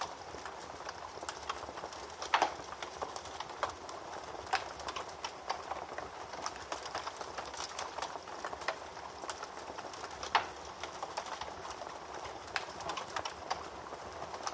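Wood fire burning in a fireplace: a steady low rush of flames with irregular crackling, and two louder pops, about two seconds in and again about ten seconds in.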